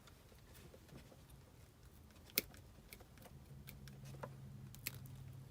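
Quiet, scattered clicks and snips of hand work on the wiring as a condensate pump is wired into a gas furnace, the sharpest click about two and a half seconds in. A low steady hum comes on about three and a half seconds in.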